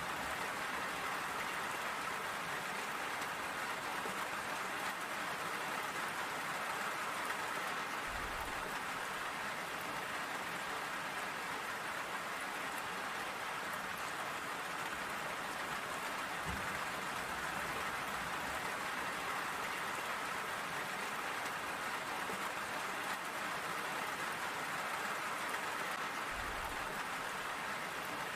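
Steady rain falling and pattering on surfaces, an even hiss with no let-up, with three brief low thuds spread through it.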